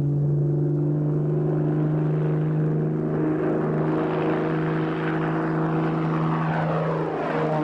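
The propeller engine of a 3/4-scale Focke-Wulf 190 replica aircraft, droning steadily in flight. Near the end its pitch starts to fall as it passes by.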